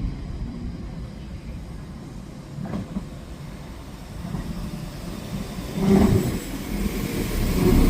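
Train moving along the track: a steady low rumble with a few knocks from the wheels and cars, the loudest about six seconds in, getting louder towards the end as it draws closer.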